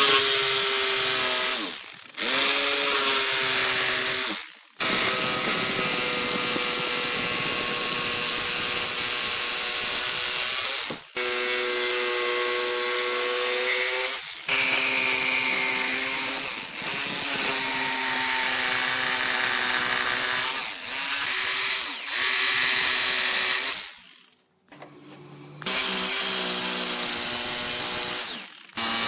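Electric power tools running in a string of short edited shots, a steady motor whine whose pitch dips and recovers as the tool is loaded. Each shot breaks off abruptly, every two to six seconds, with a brief near-quiet gap a little after the middle.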